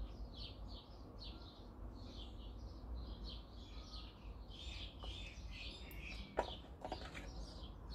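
Faint bird chirping, several short chirps a second without a break, with a couple of light clicks near the end.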